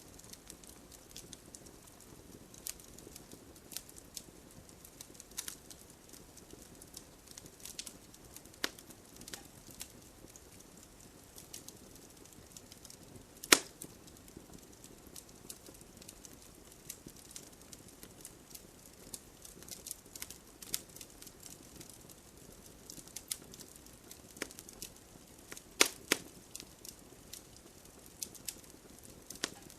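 Campfire crackling: burning wood gives irregular sharp pops and snaps over a faint low rush of flames, the loudest pop about halfway through and two close together near the end.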